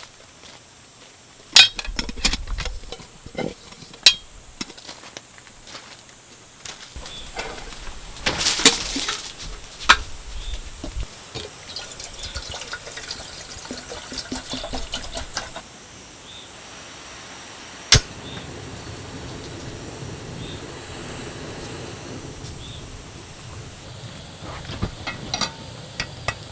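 Liquid being poured and handled, among a series of sharp knocks and clinks of handled items; a single loud knock about two-thirds through, then a steady low background.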